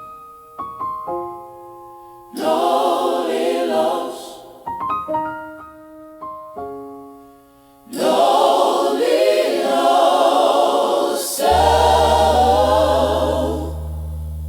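Gospel music: a choir sings short phrases that alternate with piano phrases of single notes, and a low bass note comes in under the choir near the end.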